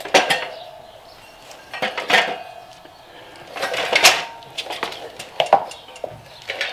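Metal tire irons clinking and scraping against a dirt bike's rear wheel rim as the tire is levered off, in about five separate strokes.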